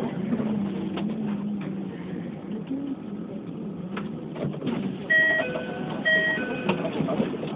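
Keikyu New 1000 series train running, heard from inside the car: a steady low hum with a few sharp clicks of the wheels over rail joints. About five seconds in, a level-crossing warning bell starts ringing in short electronic two-tone strokes, high and low alternating, several times.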